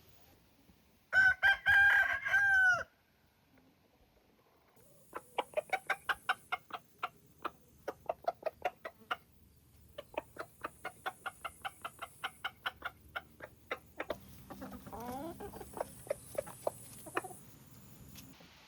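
A rooster crows once, about a second in, a single loud call that falls away at its end. Then hens cluck in long runs of short notes, several a second.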